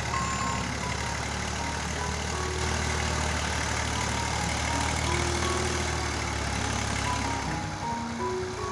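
Massey Ferguson 240 tractor's three-cylinder diesel engine running steadily with a low hum that falls away about seven and a half seconds in.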